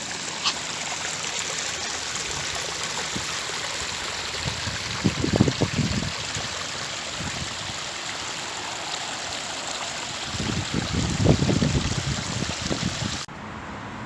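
Steady rush of running water, with low gusty buffeting on the microphone about five seconds in and again from about ten seconds in; the sound drops off abruptly near the end.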